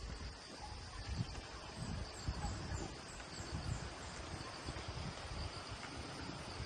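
Outdoor ambience: a steady high-pitched insect drone, with irregular low rumbling gusts of wind on the microphone.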